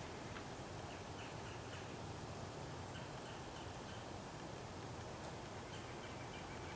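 A bird calling in three short runs of quick, high, repeated notes over a steady outdoor background of hiss and low rumble.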